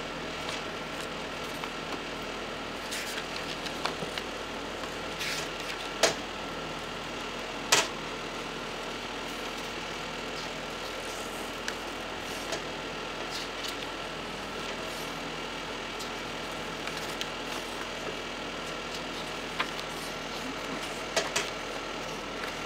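A paper booklet being handled and its pages turned, giving a few scattered soft clicks and rustles, the sharpest about 6 and 8 seconds in. Under them runs a steady background hum.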